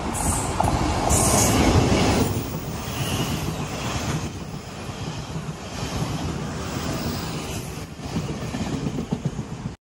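Locomotive-hauled passenger train passing at speed close by, its steel wheels rumbling and clattering on the rails. It is loudest as the head of the train goes by a second or two in, then runs on in repeated surges as the coaches pass, and cuts off suddenly.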